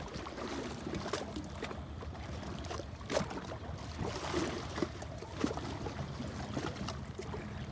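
Riverside ambience on a hand-held cell phone: wind buffeting the microphone and moving water, with a steady low rumble and a couple of short knocks about three and five and a half seconds in.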